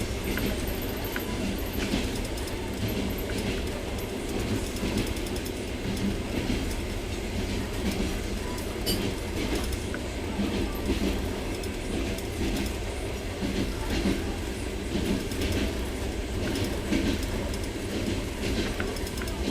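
Trans-Siberian Railway passenger train running along the track, heard from inside the carriage: a steady rumble of wheels on rail with scattered clicks from the rail joints.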